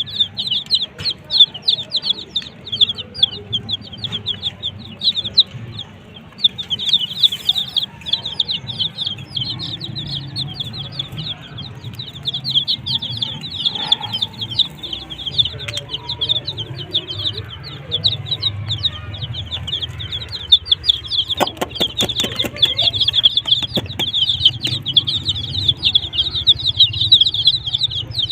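A brood of young chicks peeping constantly, many rapid high peeps overlapping. A hen clucks among them. A quick run of sharp taps or clicks comes about three quarters of the way through.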